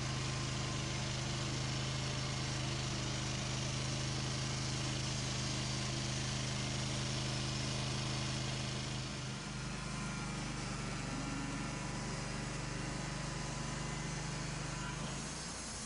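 Sawmill engine running steadily. Its note changes about nine seconds in and drops away near the end.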